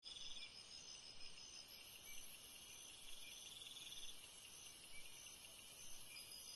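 Insects trilling faintly in a high-pitched chorus, a steady pulsing buzz with short chirps repeating several times a second.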